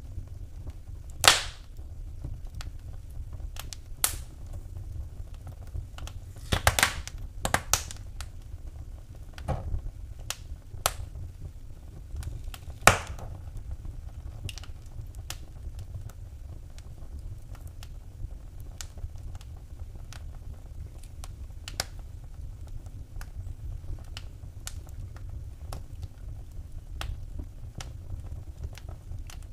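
Wood fire in a fireplace crackling: sharp, irregular pops and snaps, the loudest about a second in and again near the middle, over a steady low rumble.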